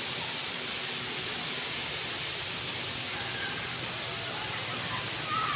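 Steady rushing of falling water from a waterfall, even and unbroken, with faint distant voices underneath.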